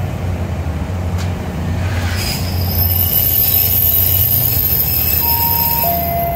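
Taiwan Railways DR2800 diesel multiple unit pulling into a station: a steady low diesel rumble under thin, high steady squealing tones from the wheels and brakes. Near the end a few short, higher tones step downward in pitch.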